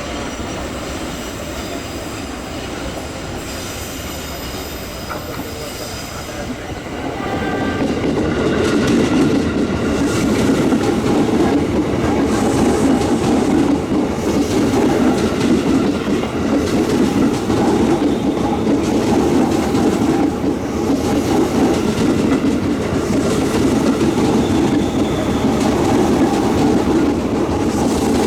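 Indonesian passenger train passing close by: steel wheels running over the rail joints with a clickety-clack, growing louder about seven seconds in and then staying loud and steady.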